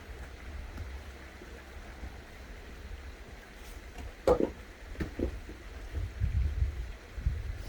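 A sharp knock about four seconds in, then two lighter knocks about a second later, over a steady low rumble.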